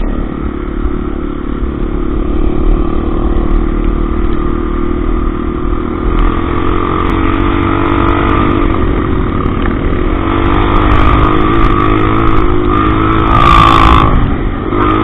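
Motorcycle engine running while riding on a dirt road, its pitch wavering up and down a little over a heavy low rumble. A brief hiss comes in near the end.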